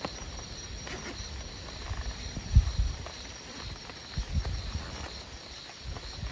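Irregular low gusts of wind rumbling against the microphone, the strongest about two and a half seconds in. A steady, high, pulsing chirring of night insects runs underneath.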